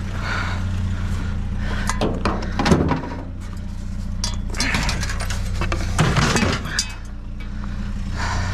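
Scrap being handled and loaded, several clattering knocks and clinks, over a vehicle engine idling with a steady low hum.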